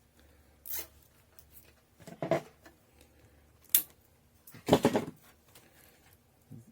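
Fan lighting cables being handled and tied together inside a PC case: a few scattered plastic clicks and rustles, the sharpest a little under four seconds in.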